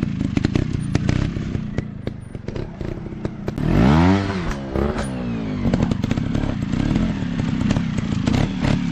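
Dirt bike engine running off-road, with a louder rev about halfway through whose pitch rises and falls. Scattered knocks and clatter throughout.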